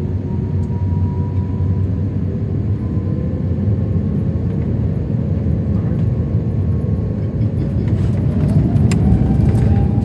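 Airbus A350-900 with Rolls-Royce Trent XWB engines: a steady low rumble with a faint engine whine, and a rising engine tone about eight seconds in as the sound grows louder.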